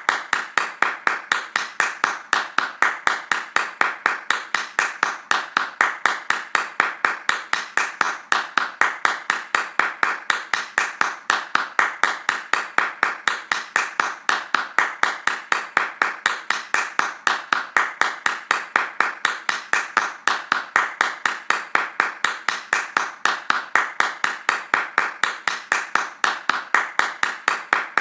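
Hands clapping fast in an even, unbroken rhythm, about five claps a second.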